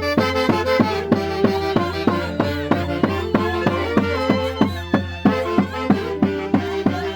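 Andean Santiago dance music played by a band, with violins carrying the melody over a steady, evenly spaced drum beat of about three strokes a second.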